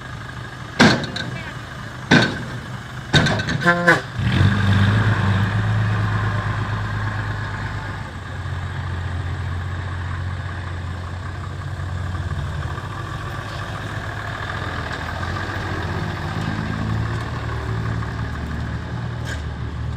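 Dump truck engine coming up about four seconds in and then running steadily at a low pitch, its level rising and falling slightly, after a few short loud sounds.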